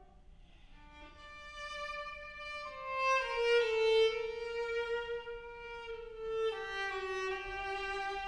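Viola playing a slow melody of long held bowed notes, starting softly and swelling louder a few seconds in.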